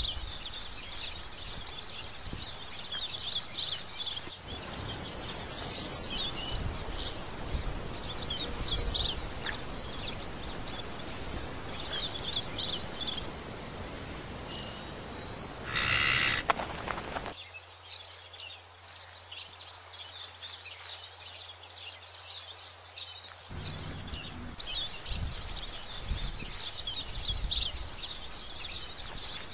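Birds chirping in the background, with one loud, very high trilled call repeated five times, about every three seconds, through the middle of the stretch.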